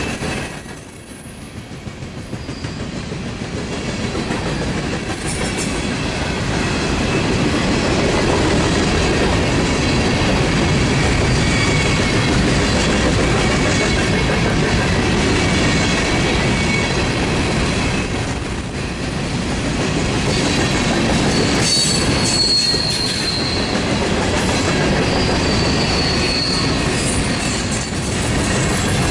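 Freight train cars rolling past, a steady rumble and clatter of wheels on the rails. It dips about a second in, then builds, with thin high-pitched wheel squeals coming and going, strongest near the end.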